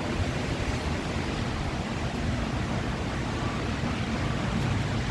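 Heavy rain falling: a steady, even hiss with a low rumble beneath it.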